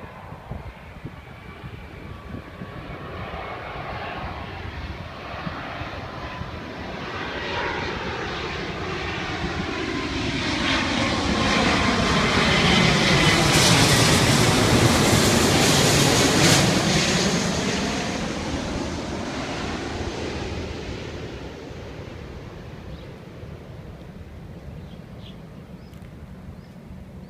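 Jet airliner on its landing approach passing overhead: the engine noise builds steadily, is loudest about halfway through, then fades as the plane goes by.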